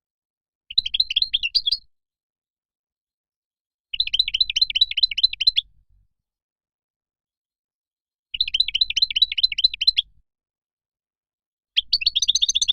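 European goldfinch song: four short bursts of rapid twittering notes, each a second or two long, with silent gaps between them; the last is cut off at the end.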